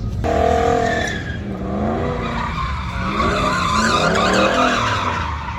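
Vehicle tires squealing over a running engine: a sudden start a fraction of a second in, with a wavering pitch.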